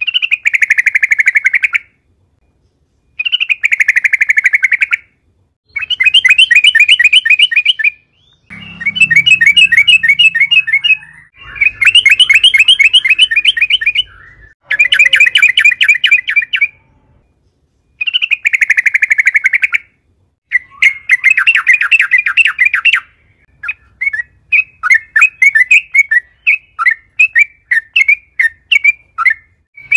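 Yellow-vented bulbul (trucukan) singing loudly in repeated bouts of about two seconds of rapid, bubbly chattering notes, with short pauses between bouts. Near the end the song breaks into looser, separately spaced notes.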